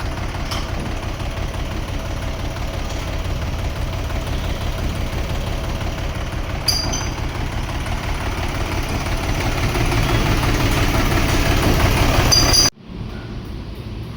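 John Deere tractor diesel engine running, growing steadily louder, then dropping suddenly to a quieter running sound about a second and a half before the end.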